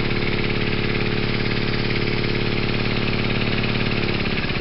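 Two-cylinder brass model marine steam engine running fast on compressed air at just under 20 psi, a rapid, even beat of exhaust chuffs over a steady hum. The pitch shifts a little near the end.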